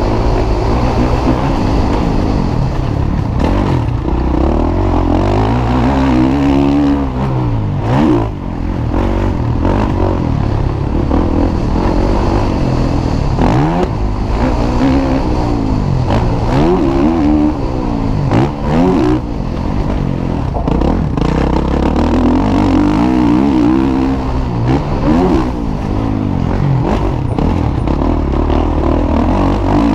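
MX1 motocross bikes racing, their engines revving up and falling back again and again, in several overlapping rises and falls of pitch.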